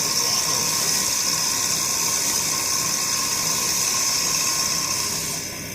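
Woodworking machine running steadily, a constant hiss with a high, even whine, dipping slightly in level near the end.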